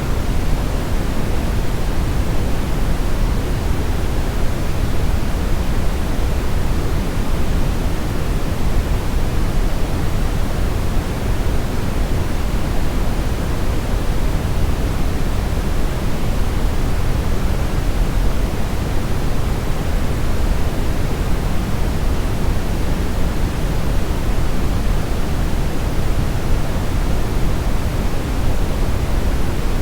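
Steady brown noise: an even, deep hiss weighted toward the low end, with no change.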